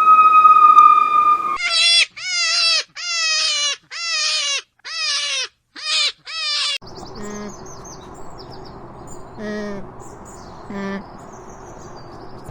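Animal calls: a held pitched note, then a run of seven loud calls that each drop in pitch, then a few short faint calls over background noise.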